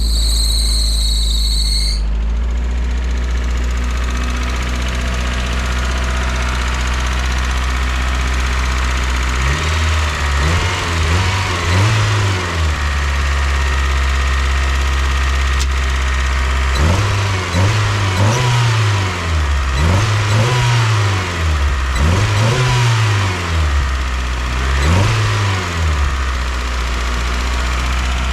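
Mazda Miata four-cylinder engine running on a test run, idling steadily and having its throttle blipped: a couple of quick revs about ten seconds in, then four or five more after about seventeen seconds, each rising and dropping back to idle.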